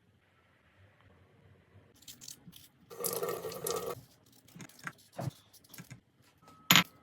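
Small household handling sounds: scattered clicks and knocks, a noisy rush lasting about a second about three seconds in, and a sharp loud click near the end.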